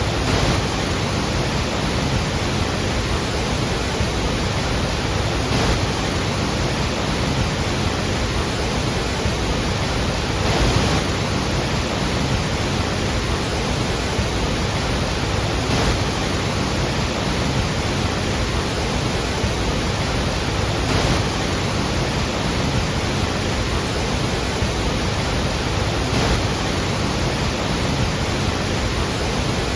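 Iguazú Falls: a great mass of water falling, heard as a loud, steady rush with slight swells every few seconds.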